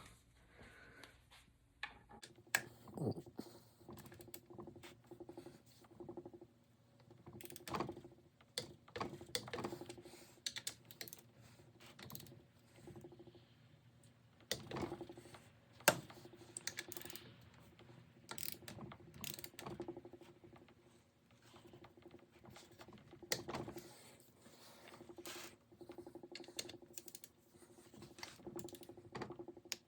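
Wrench ratcheting and clicking as the front bearing retainer bolts of a Ford toploader four-speed transmission are torqued down to 20 foot-pounds: faint, scattered, irregular clicks and small metal taps over a faint steady hum.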